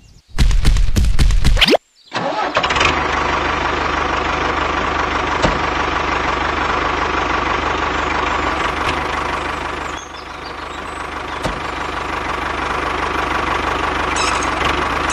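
Tractor engine starting with a loud pulsing burst for about a second and a half, then, after a brief gap, running steadily, dipping slightly about ten seconds in.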